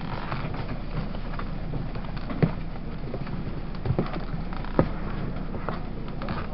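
Running noise heard aboard a Taiwan Railways push-pull Tze-Chiang express train: a steady rumble of wheels on track, with a few sharp knocks in the middle.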